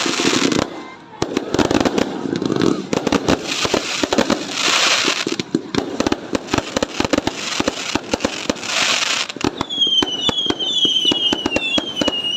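Fireworks going off in rapid succession: dense popping bangs and swells of crackling, then near the end a quick run of whistling shells, each whistle falling in pitch.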